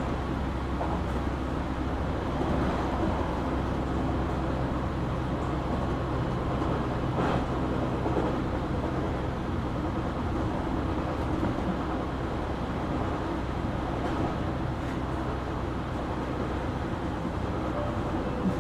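Passenger-cabin sound of a JR Kyushu 817 series electric train: a steady low rumble with a faint hum, level throughout.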